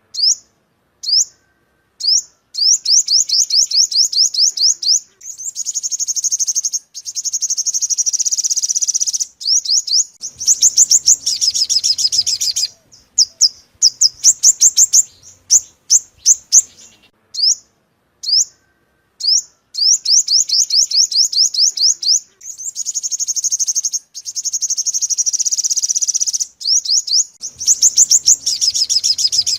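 Olive-backed (yellow-bellied) sunbird song: runs of rapid, high, thin chirps, each a quick sweep in pitch, broken by denser buzzy trills. It is a lure recording that loops about every 17 seconds.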